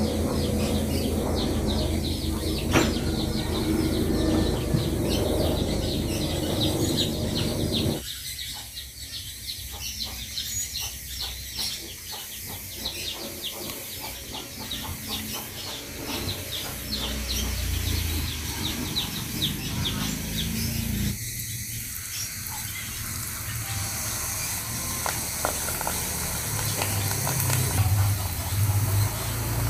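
Background birds, likely chickens, calling with rapid repeated chirps throughout while spinach chips are prepared. Hot oil sizzles as a battered spinach leaf fries near the end.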